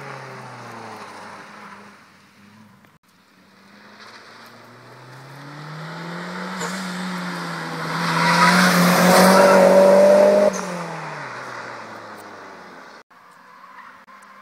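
Nissan Primera sedan's engine fades as the car drives off, then revs up as it returns and passes close, loudest from about eight to ten and a half seconds in. Its pitch then drops as it pulls away.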